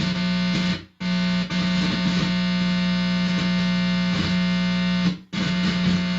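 Guitar amplifier putting out a loud, steady distorted buzz as the bare tip of a guitar cable is held against a person's head, the body picking up electrical hum. The buzz cuts out briefly twice, about a second in and near the end, as the contact shifts; the user takes the sound for a directed radio-frequency signal.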